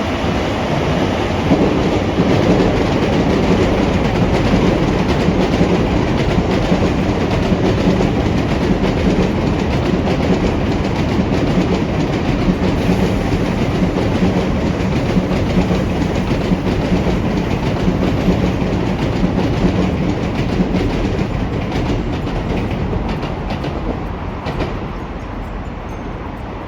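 A train passing close by, its wheels clattering rhythmically over the rail joints with a steady rumble. The sound eases off somewhat near the end.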